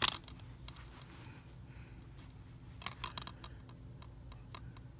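Faint plastic clicks and ticks from a DVD case being handled: one click at the start, then a loose cluster of light clicks about three seconds in, over a low steady hum.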